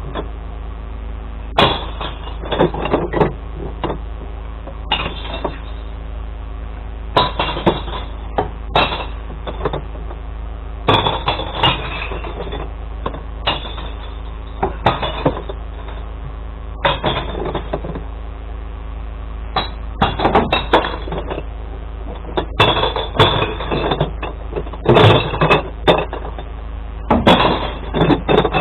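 Glass bottles and jars clattering and smashing in short, repeated bursts as recycling is tipped into a glass collection truck, over the steady hum of the truck's idling engine.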